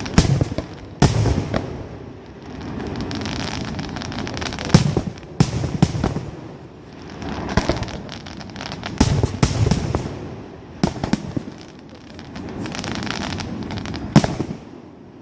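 Fireworks display: sharp shell bursts and bangs at irregular intervals, several in quick succession around the middle, with a rumbling hiss of launches and crackle between them.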